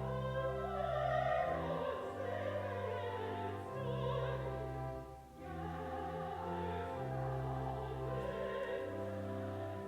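A hymn or anthem sung in classical style over held organ notes, with a short break between phrases about five seconds in.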